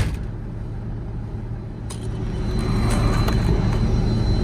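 Peterbilt 359 semi truck's diesel engine idling steadily, with a sharp click right at the start and the engine sound growing a little louder about halfway through.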